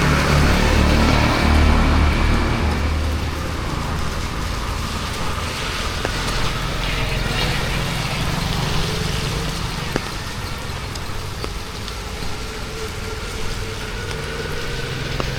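Street traffic: a motor vehicle's engine rumbles close by for the first few seconds, then fades into steady traffic noise with a few short knocks.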